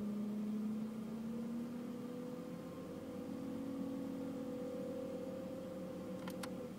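BMW E60 heating and air-conditioning blower whining, a steady two-tone whine, the higher tone climbing slightly in pitch. The whine comes only with the climate system switched on. Two clicks sound near the end, and the higher tone stops just after them.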